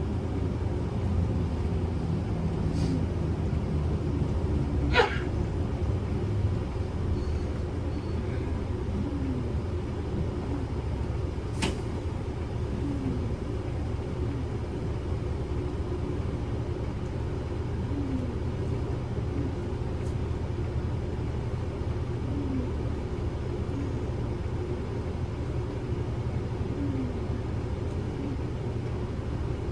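Interior of a Kyoto City bus under way: steady low engine and road rumble. A brief sharp click about five seconds in and another near twelve seconds.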